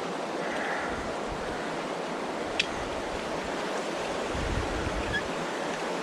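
Steady outdoor rushing noise with low gusts of wind buffeting the microphone, and a single sharp click about two and a half seconds in.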